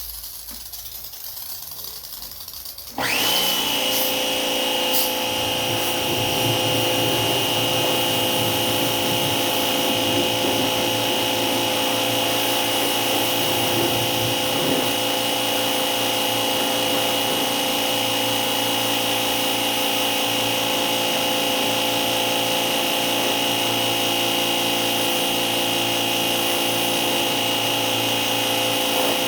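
Hissing for about three seconds, then an electric motor starts and runs steadily with a high whine for the rest of the time.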